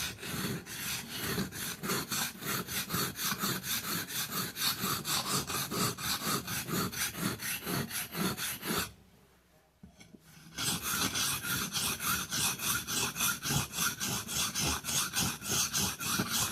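Knife blade being sharpened on a whetstone: quick, even back-and-forth scraping strokes, about four a second. The strokes pause for about a second and a half midway, then resume.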